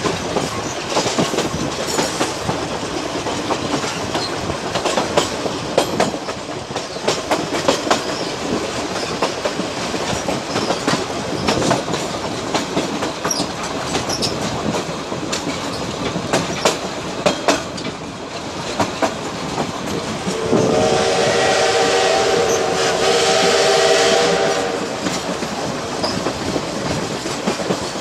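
Train running on the rails, heard from aboard: a steady rolling rumble with frequent clicks of the wheels over rail joints. About two-thirds of the way in, the train's horn sounds one long chord of several tones for about four seconds.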